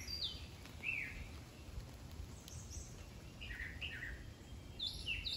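Wild birds calling in the trees: short chirps that slur downward, a few every second or so, some in quick pairs.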